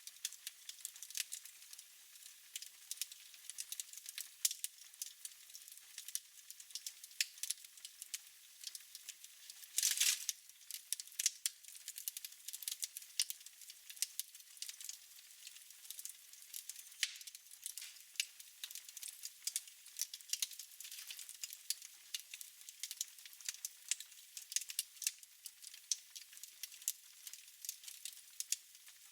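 Wood fire in a fireplace crackling, with frequent irregular sharp pops and one louder, longer crackle about ten seconds in.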